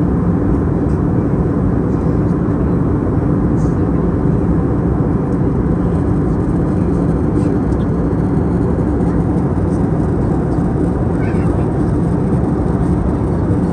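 Steady cabin noise inside an Airbus A320neo airliner: an even, low drone of the engines and airflow with a faint constant hum.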